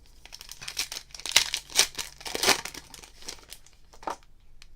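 Plastic wrapper of a football trading-card pack crinkling as it is torn open and pulled off the cards, then a couple of light ticks near the end.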